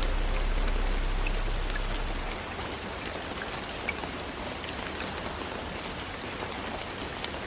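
Soft rain falling steadily on a window: an even hiss of rain with scattered single drops ticking against the glass. A low music drone under the rain fades out about two seconds in.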